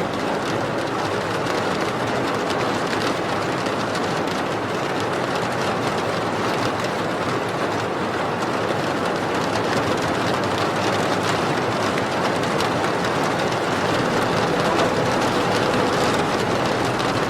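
Steady rain falling: an even hiss dotted with many small drop hits.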